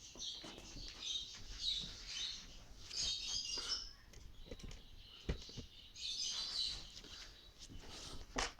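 Small caged parrots chirping in several short bursts, with a few light clicks and taps; a sharper tap comes about five seconds in.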